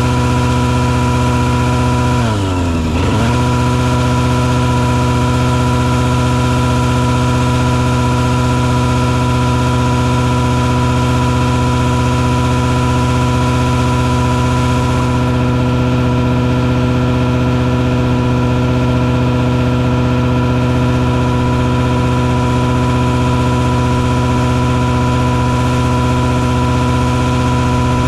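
Engine on a mosquito-fogging truck running steadily at constant speed, its pitch dipping sharply and recovering about two to three seconds in.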